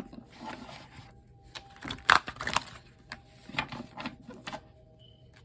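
Tarot cards being handled: a run of quick rustles and flicks with a few sharper snaps, the loudest about two seconds in, stopping a second before the end.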